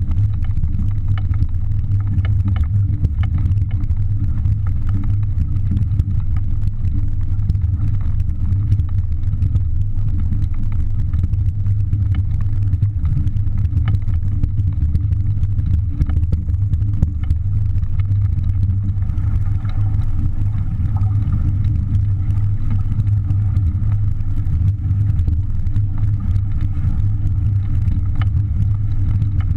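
Steady low rumble of strong wind buffeting the microphone on a small sailboat beating upwind in gusty wind.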